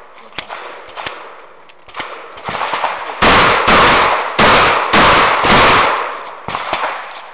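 Rapid shotgun fire: five loud shots about half a second apart, each ringing out briefly, preceded by a few small clicks and knocks.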